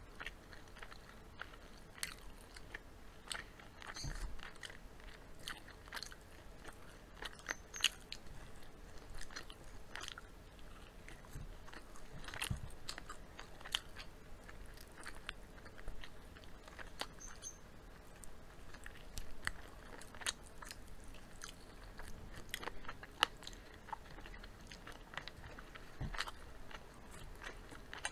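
Close-miked chewing of fried chicken and fries by two people: irregular wet mouth clicks and crunches, with the occasional louder bite.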